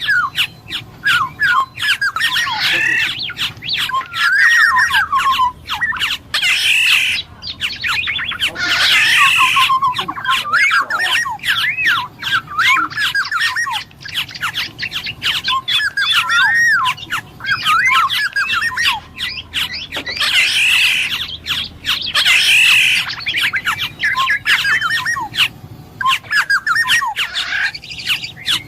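Black-naped oriole (kepodang) singing in a steady stream of clear, fluty whistled notes that glide up and down, mixed with harsher squawky calls. Many sharp clicks run through it.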